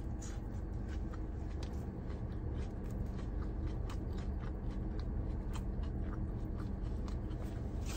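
Close-up chewing of a crispy fried chicken sandwich: a bite, then many short crunches and wet mouth clicks, over a steady low hum.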